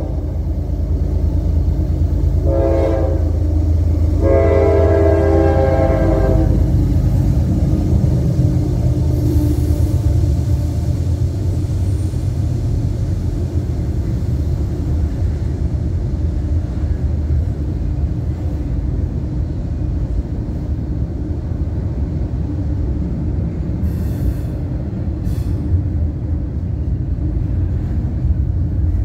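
Freight locomotive horn sounding for the grade crossing: the end of one blast, then a short blast, then a longer one. It gives way to the steady loud rumble of double-stack intermodal container cars rolling past on the rails, with two sharp knocks near the end.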